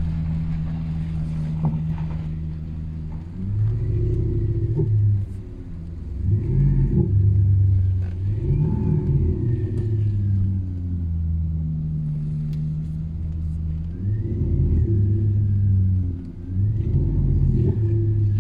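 Opel Astra engine through a loud aftermarket exhaust, idling with a deep rumble and revved up in short blips about five times, dropping back to idle between each.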